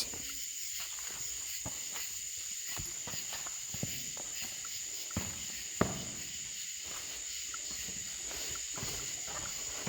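Night insect chorus, a steady high-pitched buzz, with a few faint knocks or small movements about halfway through.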